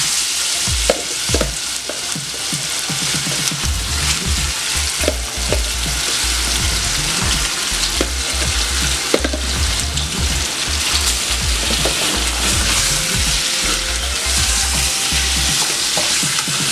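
Marinated chicken breast pieces sizzling steadily as they fry in hot vegetable oil in a metal pot, with a spoon scraping and knocking against the pot now and then as they are stirred.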